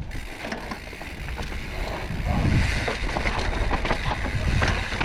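Mountain bike riding downhill over a rough dirt and rock trail: steady wind noise on the microphone, with tyre rumble and frequent short knocks and rattles as the bike hits bumps.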